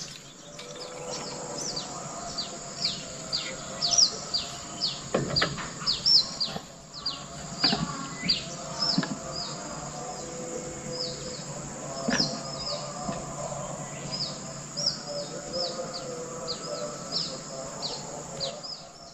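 Small birds chirping over and over, short high notes that slide down in pitch, about one or two a second, with a few sharp knocks in between.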